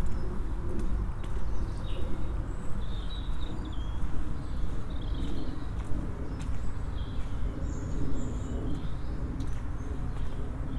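Small songbirds chirping and calling in short phrases, over a steady low outdoor rumble, with faint irregular footsteps.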